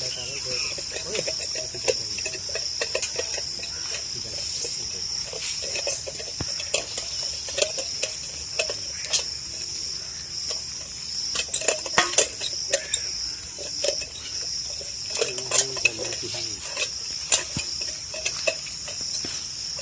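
A steady, high-pitched insect chorus drones without a break, with scattered sharp clicks and taps over it.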